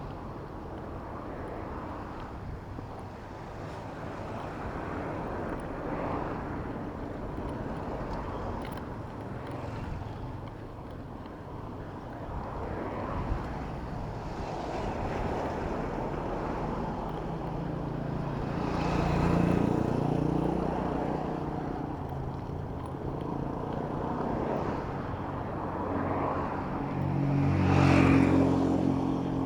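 Road traffic heard from a bicycle: a steady mix of engine and tyre noise, with two motor vehicles swelling loud as they pass close, one about two-thirds through and one near the end.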